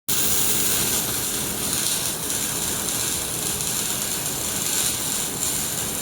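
Air-cooled handheld laser welder in use: a steady hiss with a fine crackle.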